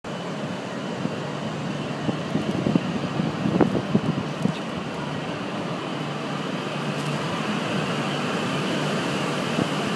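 E6 series Shinkansen pulling out of the platform: a steady hum of the train's equipment that grows gradually louder as it starts to move.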